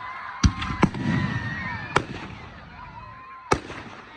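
Fireworks display: four sharp bangs of aerial shells bursting, two close together near the start, then one about two seconds in and one near the end, each ringing out briefly. Wavering whistling tones glide between the bangs over a low rumble.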